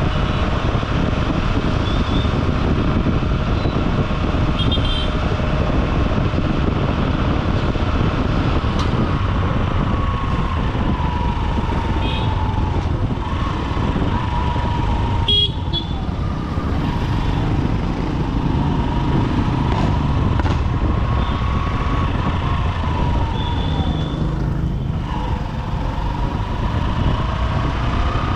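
Honda SP125 single-cylinder commuter motorcycle riding through dense city traffic, its engine pitch falling and rising with the throttle, over steady road and wind noise. Several short car and motorcycle horn toots sound from the surrounding traffic.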